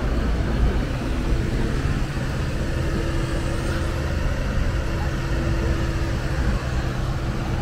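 Ferrari V8 idling steadily at close range, with city street noise around it.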